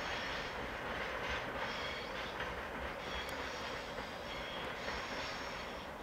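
Freight train of Taki tank wagons rolling away over the station tracks: a steady rumble of wheels on rail with a faint high wheel squeal.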